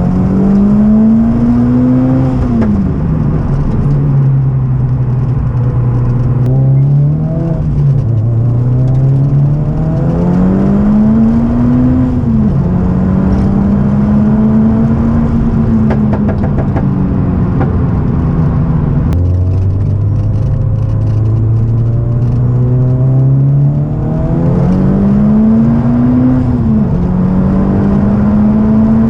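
Audi TT Mk1's turbocharged 1.8-litre four-cylinder heard from inside the cabin, with a really noisy exhaust. It accelerates on boost several times, rising in pitch and then dropping sharply at each gear change or lift, with steadier cruising stretches in between.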